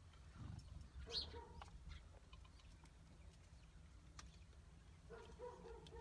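Faint bird calls: a short call about a second in and a few brief low calls near the end, with scattered light clicks.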